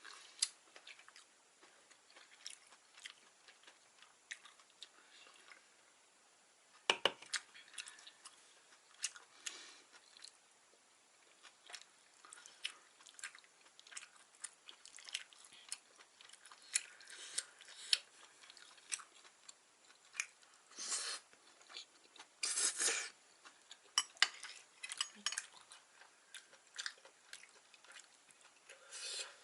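Close-miked chewing of vegetable gopchang (chewy stir-fried intestines), with wet mouth clicks and smacks, a sharper knock about seven seconds in and a couple of short rushing noises near the two-thirds mark.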